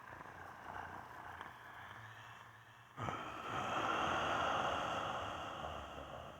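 A person voicing a werewolf, with added reverb and echo. A quieter sound without a clear pitch comes first. About three seconds in, a louder one starts suddenly, swells and then fades away.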